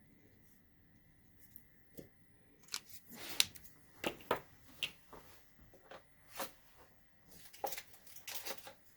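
Craft supplies being handled on a tabletop: a series of light clicks and taps, sparse at first and coming every half second or so from about three seconds in.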